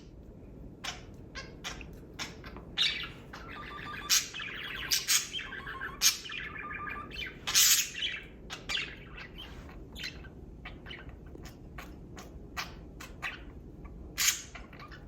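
Pet budgerigars chirping with short, sharp calls throughout, and a run of warbling chatter from about three to eight seconds in.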